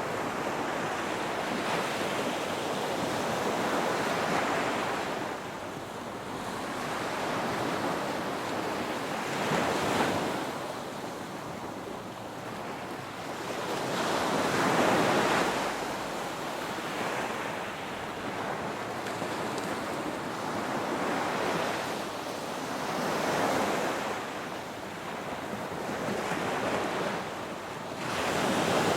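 Ocean surf: waves breaking and washing in, a steady rush of water that swells to a louder surge every five to eight seconds and then ebbs.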